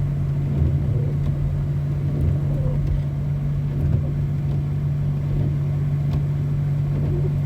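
Steady hum and road noise inside a moving car's cabin, with the heater blower running.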